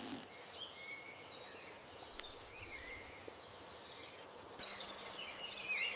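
Faint outdoor ambience with scattered short bird chirps, plus a single click about two seconds in.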